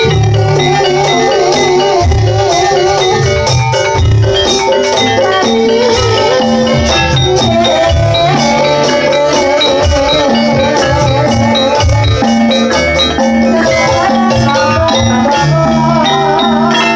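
Javanese jaranan gamelan music played loudly and continuously. Metallophones ring out a repeating pattern over drum strokes, with a wavering melody line above.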